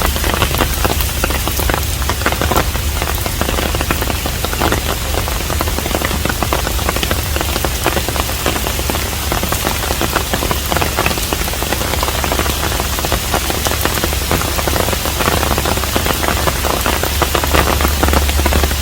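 Steady rain falling on a traditional Korean hanok, with many separate drop hits close by over an even hiss and a steady low rumble underneath.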